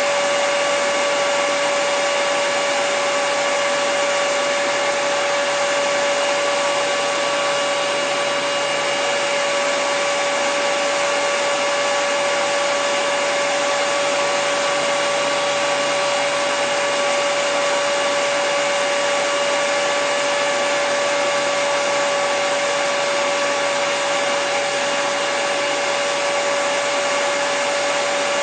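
Electric hair dryer running continuously at a constant setting: a steady rush of blown air with a steady motor whine over it, unchanging throughout.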